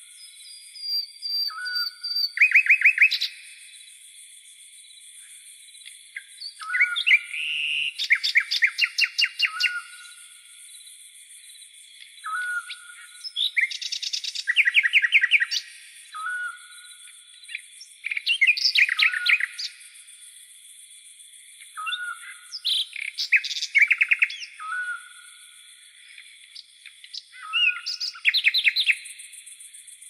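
Birds singing in phrases every few seconds. Each phrase has a short hooked note followed by fast runs of repeated trilled notes. A steady high-pitched hiss runs underneath throughout.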